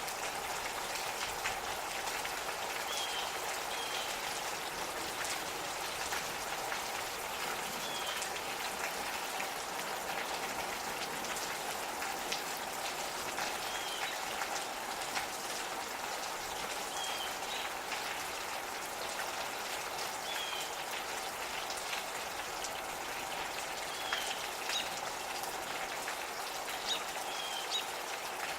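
Steady light rain with individual drops ticking on nearby surfaces, and a bird giving short high chirps every few seconds.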